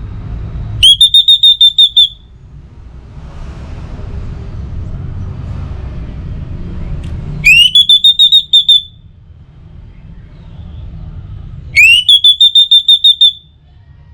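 Orange-headed thrush calling three times. Each call is a rising whistle that breaks into a quick run of about seven pulsed notes at the same high pitch, lasting a little over a second. The calls sit over a low, steady background rumble.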